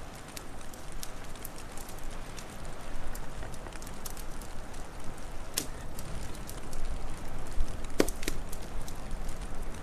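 Wood fire crackling: a steady hiss scattered with small ticks and a few louder pops, the loudest two close together near the end.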